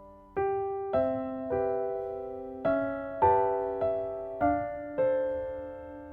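Background music: a gentle piano melody, chords struck about every half second and left to ring and fade.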